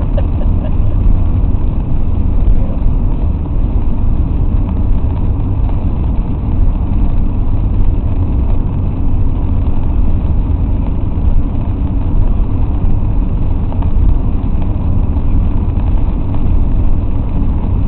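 Steady low rumble of a car in motion heard from inside the cabin: tyre and engine noise at road speed.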